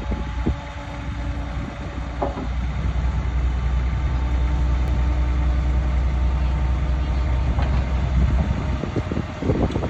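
Crawler bulldozer working: its diesel engine runs with a heavy low rumble that grows louder about three seconds in and eases near the end, while its steel tracks clank now and then.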